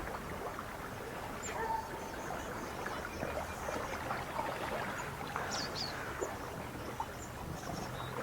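Lakeside ambience: water lapping with scattered short, high bird chirps and calls. A low steady hum comes in about halfway.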